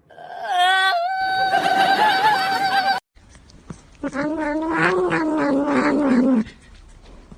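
A cat meowing: a long, wavering call lasting nearly three seconds, then after a short break a second, lower drawn-out call that falls in pitch at the end.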